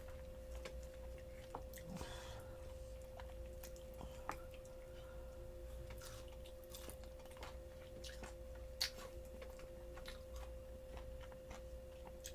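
A person chewing food close to the microphone: soft, scattered mouth clicks and smacks, with a sharper click about four seconds in and another just before nine seconds. A steady low electrical hum runs underneath.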